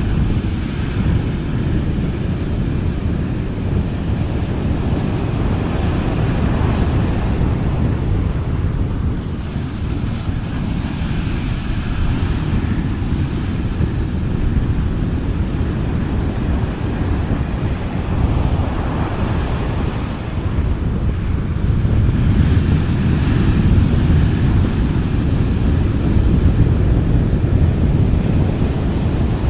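Small sea waves washing onto a beach, the surf rising and falling in slow swells every several seconds, with wind rumbling on the microphone.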